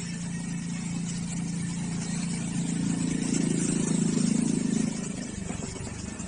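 Radio-controlled off-road car's motor running with a steady low hum that grows louder over a few seconds, then drops off suddenly about five seconds in.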